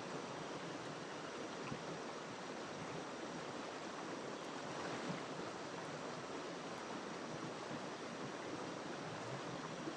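A small jungle river flowing over rocks: a steady rush of running water.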